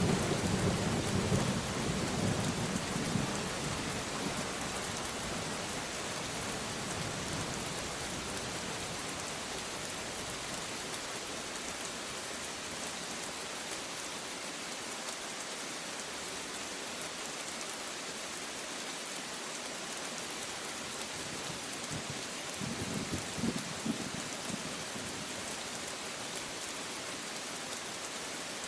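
Steady rain hissing, with a rumble of thunder dying away over the first few seconds and a brief, fainter rumble again about three-quarters of the way through.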